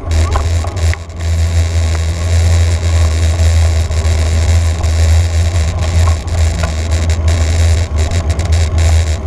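Heavy, steady low rumble of wind on the microphone during a bicycle ride, with a noisy hiss and scattered small ticks and rattles over it.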